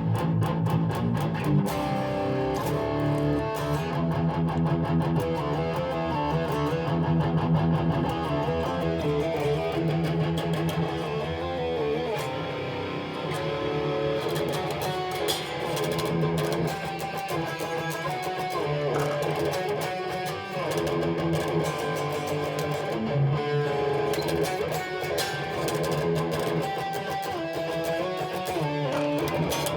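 Electric guitar played through a Maxon OD808 overdrive pedal set as a boost, running through a continuous passage of single notes and chords.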